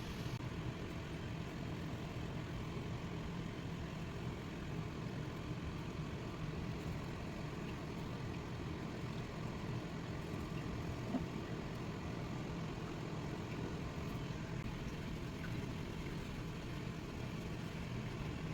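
A steady low hum of background noise, with a faint click about eleven seconds in.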